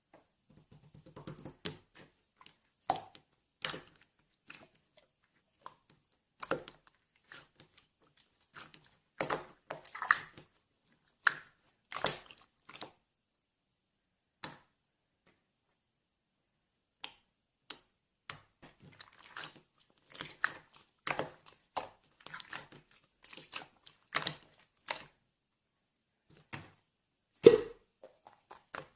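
Clear slime being pressed and stretched by hand, making irregular sticky pops, clicks and squelches with short pauses between them.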